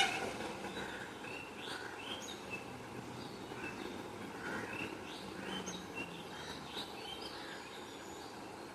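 Several birds chirping: short, scattered calls over a steady background hiss.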